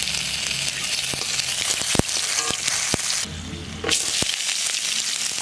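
Hot oil sizzling with whole spices in an aluminium wok, and a metal spatula knocking against the pan a couple of times. Near the end sliced onions go into the oil and the sizzle comes back fuller.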